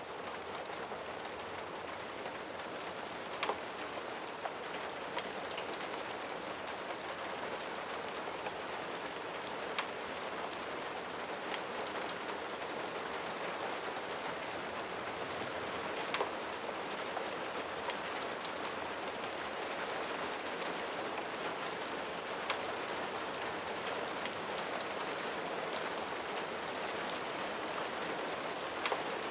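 Steady rain falling on a surface, an even hiss with a few sharp pops or ticks scattered through it.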